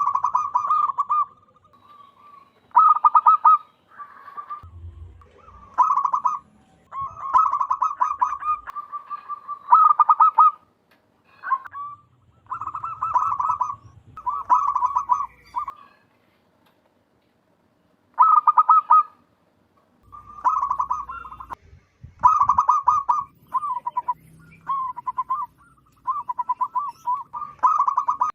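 Zebra dove (perkutut) singing: repeated phrases of rapid, stuttering coos, each about a second long. There is a pause of about two seconds midway.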